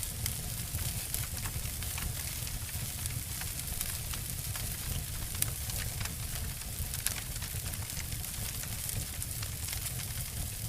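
Two wood fires, a campfire and a fireplace, burning together and crackling: frequent sharp snaps and pops over a steady low rumble and hiss.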